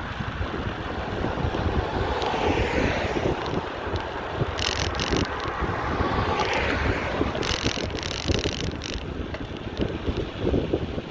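Wind buffeting the microphone on a moving bicycle, over street traffic passing by. There are two short bursts of hiss, about four and a half and seven and a half seconds in.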